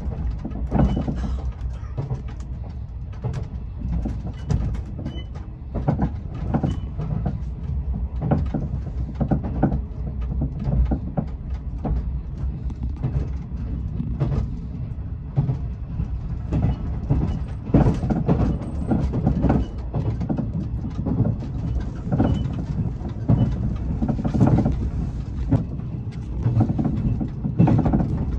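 Cabin ride noise of a JR West 381 series tilting electric express train at speed: a steady low rumble of the wheels on the rails, with frequent irregular clicks, knocks and rattles.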